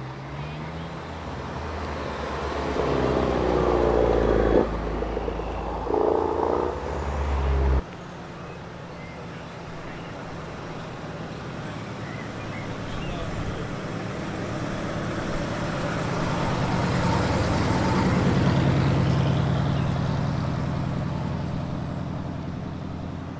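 A Mk3 Ford Focus RS's turbocharged four-cylinder engine accelerating hard, its pitch rising, with a brief break about four and a half seconds in as it changes gear, then cutting off abruptly near eight seconds. After that a classic Ford muscle car's engine, low and steady, grows louder as it pulls slowly past and fades as it drives away.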